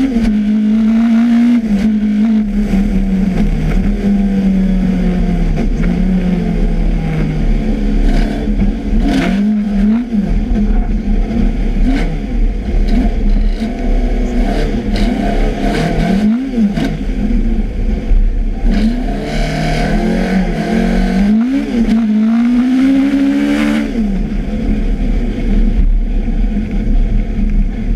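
Rally car engine driven hard, the revs climbing and dropping over and over through gear changes and corners, with several quick lifts and blips of the throttle near the middle and a long pull near the end.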